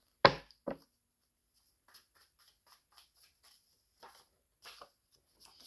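Small handling noises: a sharp click just after the start and a softer one half a second later, then a run of faint light ticks and taps, about three or four a second, dying away near the end.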